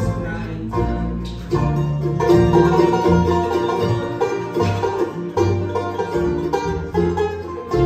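Live bluegrass band playing an instrumental, with a picked banjo rolling over strummed guitar and an upright bass keeping a steady beat, and a fiddle faintly in the mix.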